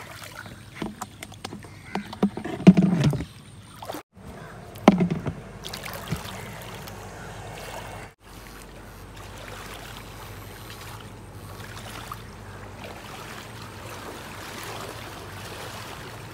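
Water and a run of irregular knocks and splashes, the loudest about three seconds in and another about five seconds in, then a steady water hiss.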